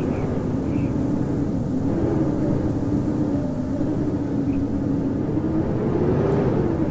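Howling blizzard wind: a steady rush of wind with a low howl whose pitch wavers up and down.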